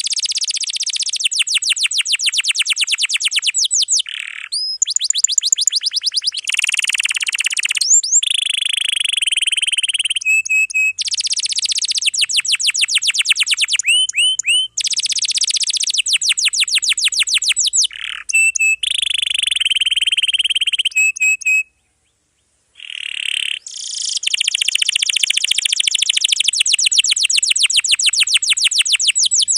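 Domestic canary singing a long, dense song: fast trills of repeated notes, quick rising sweeps and buzzy held phrases run together almost without a break, with one brief pause about two-thirds of the way in.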